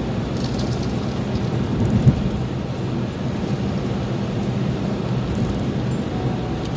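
Steady engine and road noise of a car being driven, heard from inside, with a single short knock about two seconds in.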